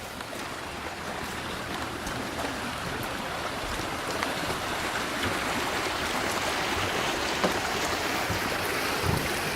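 Creek water flowing: a steady rushing that grows gradually louder.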